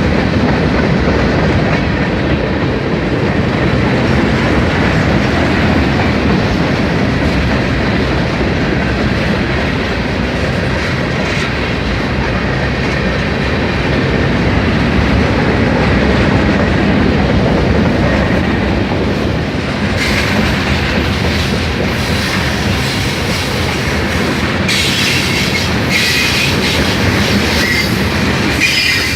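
Norfolk Southern mixed freight train's cars rolling steadily past at close range, the wheels clacking over the rail joints. From about twenty seconds in, high squealing from the wheels joins the clatter.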